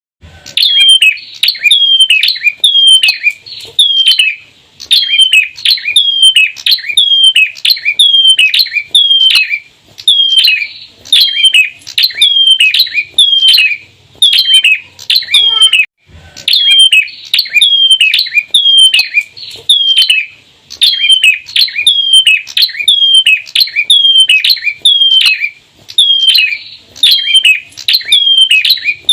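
Bar-winged prinias (ciblek) calling in a fast, loud, unbroken series of sharp descending notes, about two a second, with a brief pause about halfway through.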